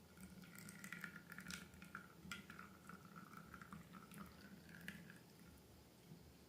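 Faint wet clicks and squelches of slime being handled and stirred, scattered over the first five seconds and then dying away.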